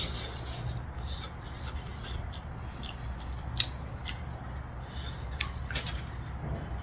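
Wood fire crackling in a fire pit: scattered sharp pops and snaps, the loudest about three and a half seconds in, over a low steady rumble.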